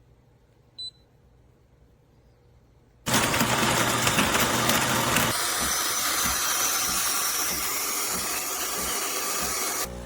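De'Longhi Rivelia automatic espresso machine: a short electronic beep, then about three seconds in a loud rushing noise from the machine starts abruptly, runs for about seven seconds, and cuts off suddenly near the end.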